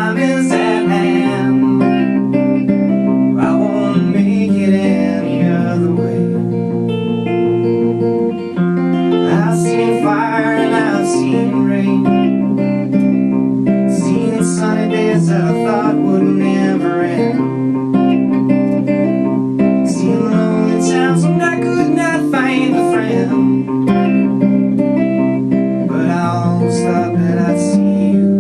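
Acoustic guitar accompaniment of a folk song, with a voice singing over it at intervals.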